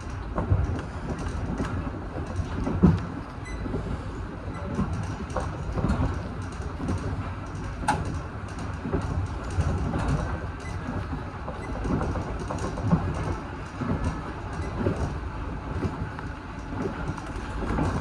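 Local train running on rails: a steady low rumble with frequent irregular knocks and rattles.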